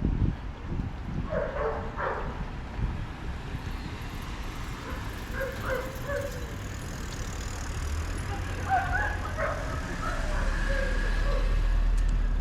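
A dog barks twice about one and a half seconds in, among outdoor walking ambience with distant voices. A low rumble of passing traffic grows toward the end.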